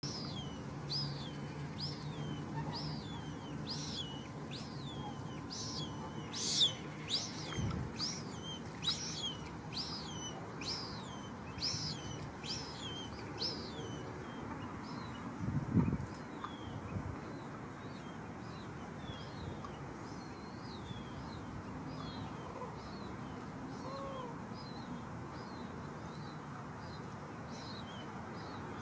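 Limpkin chicks begging with short, high, down-slurred peeps, about two a second. The peeps are louder in the first half and fainter and quicker later, with a low thump about 8 seconds in and another near 16.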